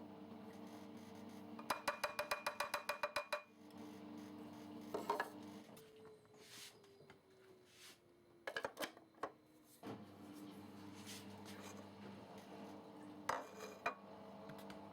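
Hard plastic parts of a burr coffee grinder being handled: a rapid run of about a dozen clicks, then several separate knocks and clatters, over a steady low hum.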